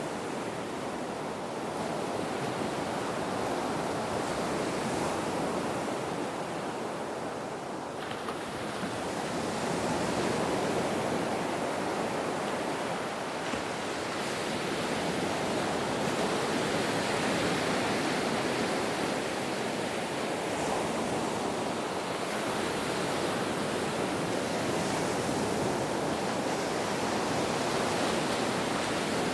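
Ocean waves washing onto a shore in a steady rush of surf, swelling and easing slowly.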